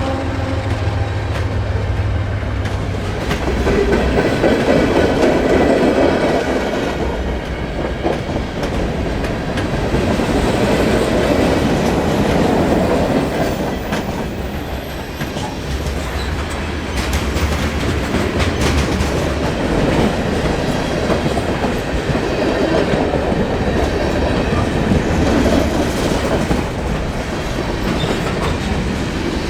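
CN manifest freight train rolling past, its cars clattering over the rails in a steady rumble that swells and eases every few seconds.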